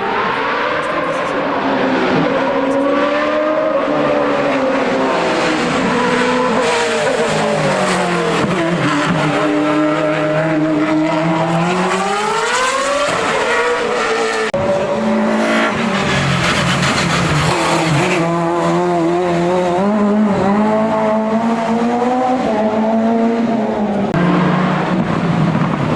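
Hillclimb race car engine running hard, its revs rising and falling with gear changes and lifts through the bends. A long climb in revs about ten seconds in is cut off sharply a little after the middle, followed by revs that waver up and down.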